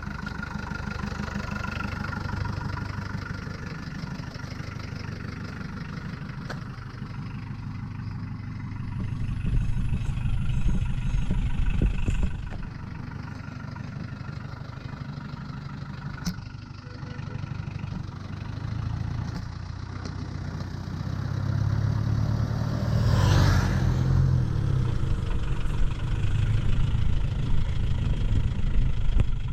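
Hindustan Ambassador car engine running, swelling louder twice as it is revved or driven. A brief rushing sound comes about two-thirds of the way through.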